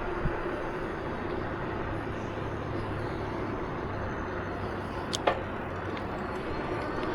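Steady running noise of a vehicle on the move, a low hum under a broad rush of wind and road noise. A sharp click comes just after the start and a louder one about five seconds in.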